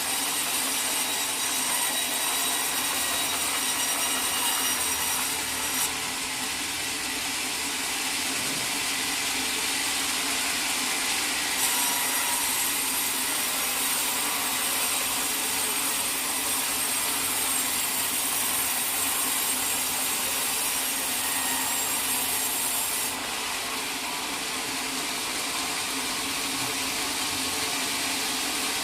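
Sawmill saw running steadily through a teak log. A brighter, higher cutting sound comes in twice: from the start to about six seconds in, and again from about twelve to twenty-three seconds in.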